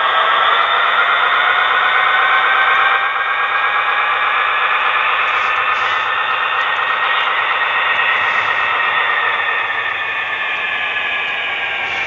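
Small electric motor and gears of a model railroad locomotive whining steadily as it runs along the track. The pitch rises a little at first, then slowly falls.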